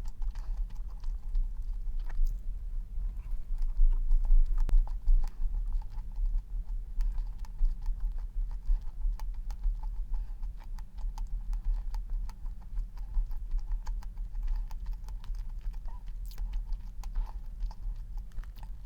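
Close-up eating sounds: a person chewing stollen, with many small crumbly clicks and crackles, over a steady low hum.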